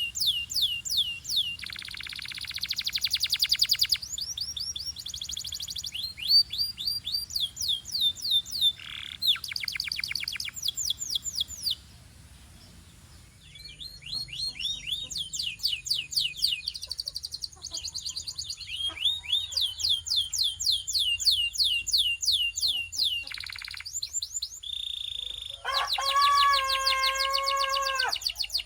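Belgian canary singing a varied song: runs of quick falling whistled notes repeated several times a second, with a fast buzzy trill a few seconds in and a short pause around the middle. Near the end it sings a lower, fuller held phrase.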